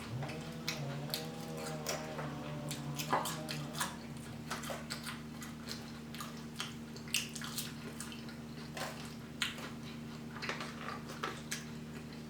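Close-miked wet chewing and mouth clicks from eating a sloppy chili cheese burger, irregular and scattered throughout, with a hummed "mmm" of enjoyment over the first three seconds. A steady low hum runs underneath.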